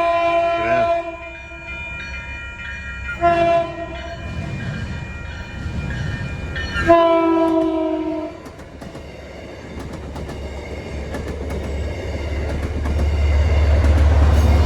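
A train's multi-tone air horn sounds three times: a long blast ending just after the start, a short one about three seconds in, and a long one around seven seconds. Then the low rumble of the approaching train grows steadily louder.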